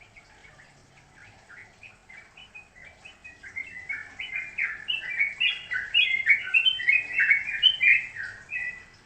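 A songbird singing a fast run of short chirping notes that grows louder over several seconds, then stops near the end.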